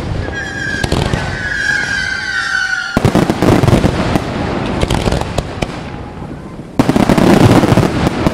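Fireworks display: a shell bursts at the start, followed by a long whistle falling slightly in pitch. About three seconds in, a rapid barrage of bangs and crackling begins, with a second, louder salvo near the end.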